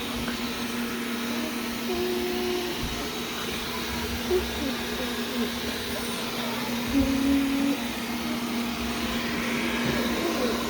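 Wyze robot vacuum running, a steady motor hum over its even brushing and suction noise.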